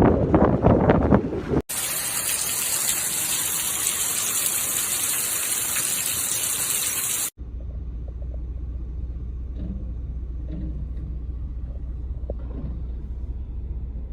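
Flood-footage audio in three abrupt cuts: a loud rumble with wind buffeting the microphone, then a steady hiss of rushing floodwater lasting about five seconds, then a quieter steady low hum.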